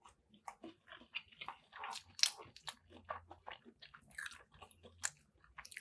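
A person chewing a mouthful of shrimp fried rice, heard close up as a run of faint, irregular mouth clicks.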